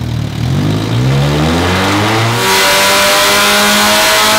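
Supercharged Mazda Miata four-cylinder engine, with an Eaton M45 supercharger, revving up under load in a dyno power run, its pitch climbing steadily. A loud rushing noise joins about halfway in as the revs rise.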